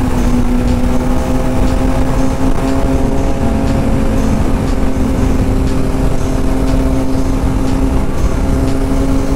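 TVS Apache RR310's single-cylinder engine running at a steady cruise, its pitch rising very slightly, under heavy wind rumble on the helmet microphone.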